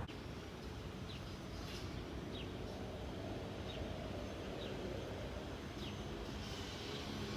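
Steady low rumble of a freight train approaching in the distance, slowly growing louder, with a bird giving short falling chirps about once a second.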